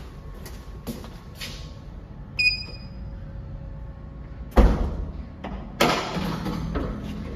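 A short electronic beep, then two heavy thuds about a second apart, each trailing off briefly; light clicks come before them.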